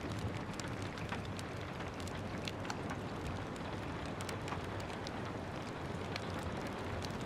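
Steady rain with a soft, even hiss, and a wood fire crackling over it in scattered sharp pops.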